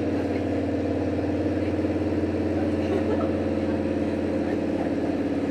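Diesel engine of a JR Hokkaido H100 diesel-electric railcar running steadily, heard from inside the passenger cabin, a low even hum with no change in pitch.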